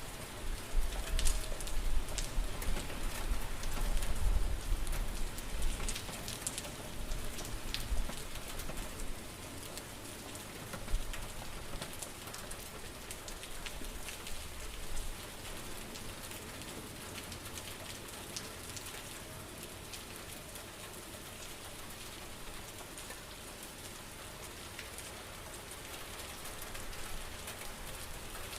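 Steady rain falling, with individual drops ticking and pattering close by. Over the first several seconds low gusty rumbles come and go, then the rain settles to an even hiss.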